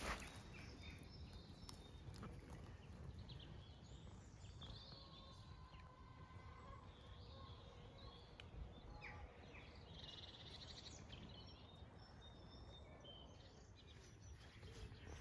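Near silence outdoors: faint, scattered wild bird chirps and short calls over a low steady rumble.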